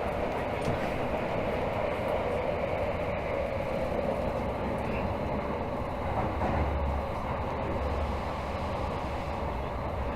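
Running noise inside a Tokyo Metro Hibiya Line 13000 series train between stations: a steady rumble of wheels and running gear, with a few low bumps in the second half.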